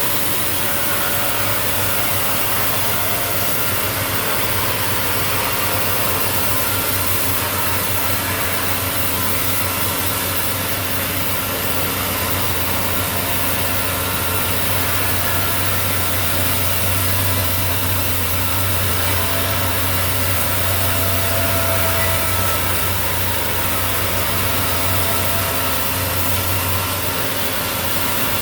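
Steady engine drone of sawmill machinery running without a break, a low hum under an even wash of noise.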